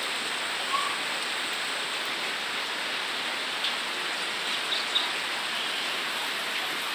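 Steady rain falling, an even hiss of rain on surfaces, with a few brief faint taps of drops.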